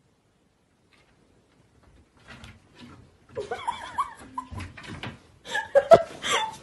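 After a near-silent start, a pet animal's vocal calls mixed with human laughter, with one sharp knock near the end.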